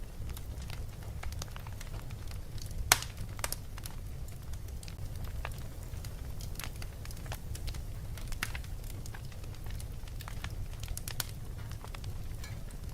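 Fireplace crackling: irregular pops and snaps, with one louder snap about three seconds in, over a low steady rumble.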